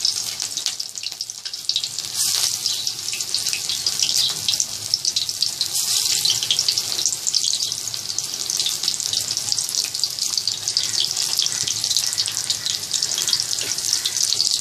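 Shrimp and gram-flour pakoras frying in very hot mustard oil in a kadhai: a steady, dense crackling sizzle that swells briefly about two and six seconds in.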